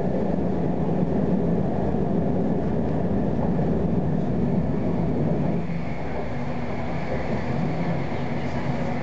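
Tram running on its rails, heard from inside the car: a steady rumble of wheels and running gear that eases slightly about six seconds in, with a faint high whine.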